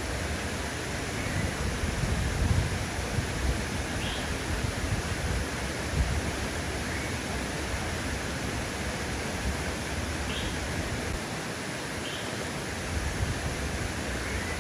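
Steady rush of flowing water, like a stream or waterfall, with a few brief high chirps spread across it.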